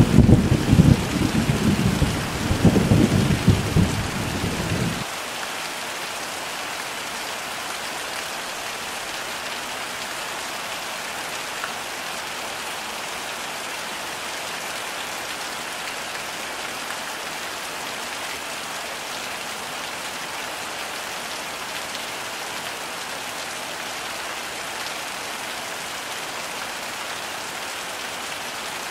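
Heavy rain falling steadily, with a loud low rumble of thunder over the first five seconds that cuts off abruptly, leaving only the even hiss of the rain.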